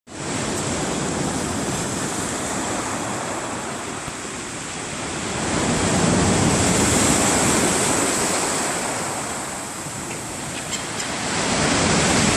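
Black Sea surf washing onto the shore, swelling to a louder surge about halfway through and again near the end.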